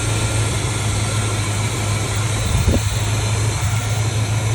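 High-mileage 318 cubic-inch (5.2 L) V8 of a 1987 Chrysler Fifth Avenue idling steadily, with one brief louder bump partway through. The owner suspects a lifter or piston slap behind its tapping and reckons the engine needs a rebuild.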